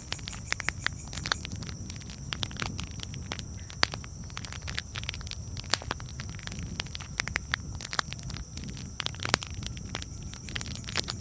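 Campfire crackling: irregular sharp pops and snaps, a few of them clearly louder, over a steady low rumble.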